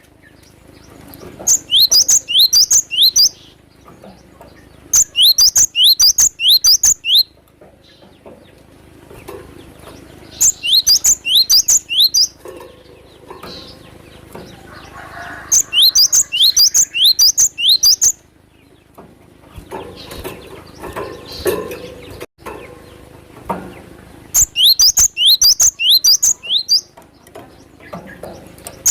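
Cinereous tit (gelatik batu) calling in repeated bouts of quick, sharply rising high chirps, about five notes a second, each bout two to three seconds long, with pauses between bouts.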